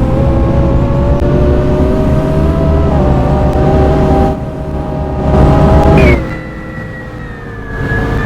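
Scania K230UB bus's diesel engine pulling under load, its pitch climbing slowly as the bus accelerates. About six seconds in the engine note drops sharply and goes quieter as the power eases off, leaving a thin high whine over the lower engine sound.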